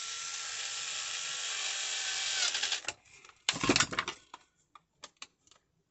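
A small handheld power tool, such as a cordless screwdriver, runs steadily for about three seconds and stops. A short clatter follows, then a few light clicks.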